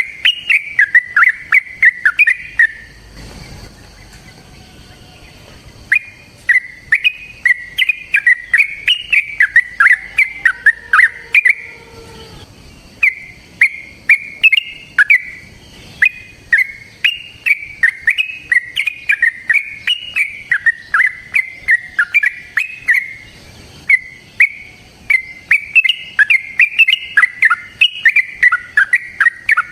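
Yellow-vented bulbul (trucukan) singing long, rapid runs of short chirping whistled notes. It stops for about three seconds near the start and breaks off briefly twice later.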